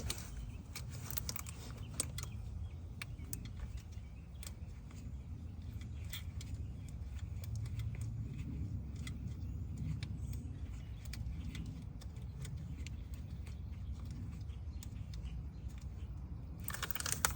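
Scattered light metallic clicks and clinks of hand tools working on bolts in a car's engine bay, with a louder cluster of clatter near the end, over a steady low rumble.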